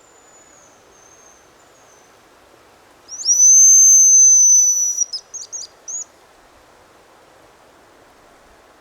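Hazel grouse song whistled very loud and close on a hazel grouse decoy call: one long, thin, high whistle held for about two seconds, then a quick run of four or five short high notes. A fainter high whistle drops in pitch near the start.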